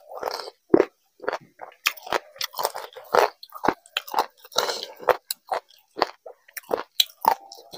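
Close-miked chewing and wet mouth smacks of a man eating vegetable khichdi by hand, with soft squishing as his fingers work the rice on the plate. It is an irregular run of short clicks and smacks.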